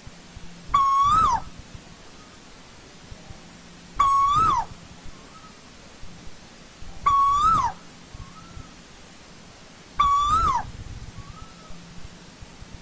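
Asian koel calling: a loud, clear note near 1 kHz that rises and then drops sharply, repeated four times about every three seconds. A faint short note follows each call.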